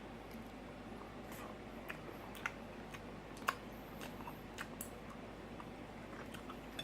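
Quiet eating sounds: scattered small clicks and taps of cutlery and mouth sounds over a dinner plate, the sharpest click about three and a half seconds in.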